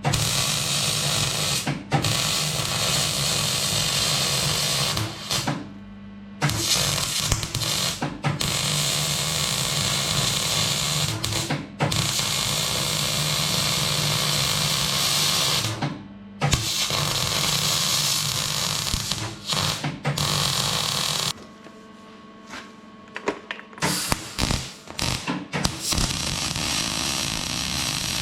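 Electric arc welding on a steel tractor exhaust muffler: a steady, loud crackle with a buzz under it, laid down in runs of several seconds with brief pauses between beads. About two-thirds of the way in the arc stops for a few seconds, then comes back in short bursts.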